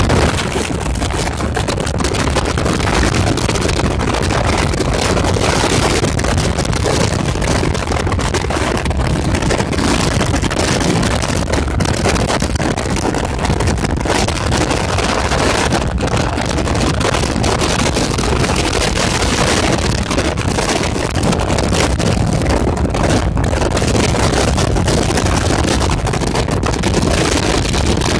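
Strong coastal wind buffeting the microphone: a loud, continuous rumble with small gusts rising and falling.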